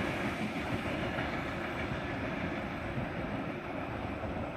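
Eight-car S-set double-deck electric train running past as its rear cars go by, a steady rumble that slowly fades as it draws away.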